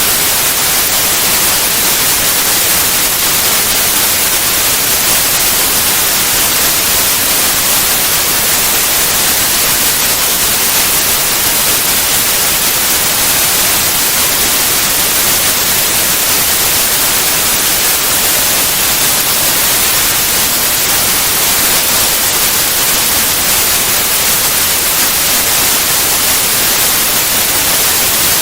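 White noise: a steady, unchanging hiss.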